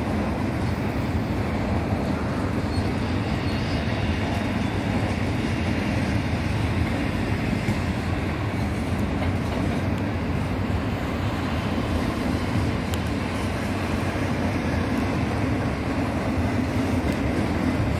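A freight train's double-stack container and piggyback trailer cars rolling past: steady noise of steel wheels running on the rails.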